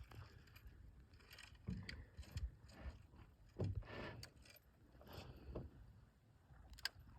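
Faint scattered knocks, clicks and scrapes with a few short rustles, as of gear being handled in a small fishing boat.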